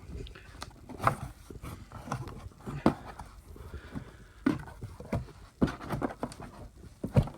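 Cardboard monitor box being opened by hand: irregular knocks and thumps with scraping and rustling of the packaging.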